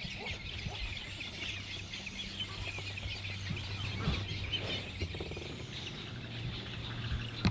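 A chorus of many birds calling at once, dense overlapping high chirps from a mixed group of birds, over a low steady hum.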